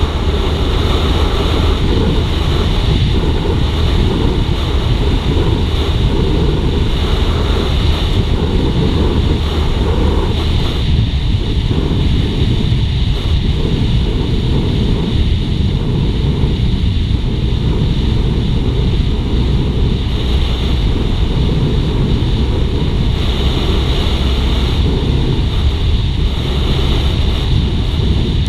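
Wind buffeting the microphone of a moving motorcycle, with the Suzuki GSX-R150's single-cylinder engine running steadily underneath. The roar stays even throughout.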